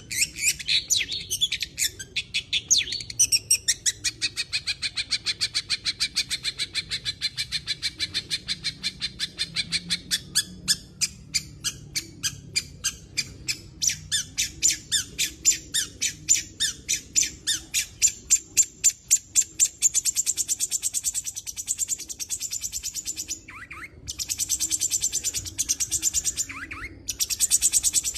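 Long-tailed shrike singing nonstop, its song packed with imitated calls of other birds. It goes in long runs of rapid repeated notes, about four or five a second, then turns to a denser, higher chatter in the last third, broken by two short pauses.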